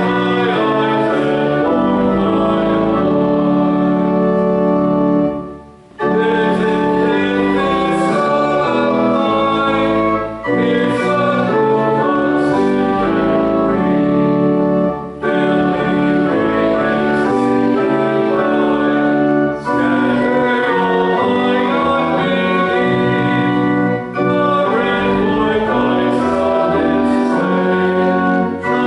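Pipe or electronic organ playing held chords, with a congregation singing a hymn, pausing briefly between phrases.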